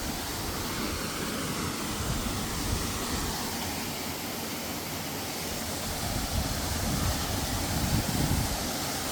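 Steady rush of a waterfall and mountain stream, with an uneven low rumble underneath.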